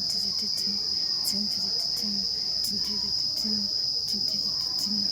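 Insects in the forest trees keeping up a continuous, high-pitched, steady trill.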